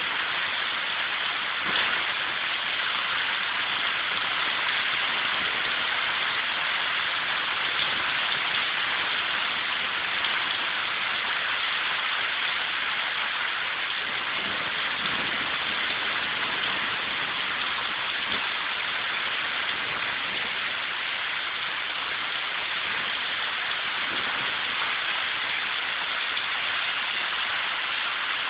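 Steady rain falling, an even hiss, with a brief louder tap about two seconds in.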